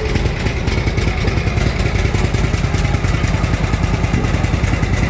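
Motorcycle engine running steadily close by, a loud, even rumble of rapid firing pulses.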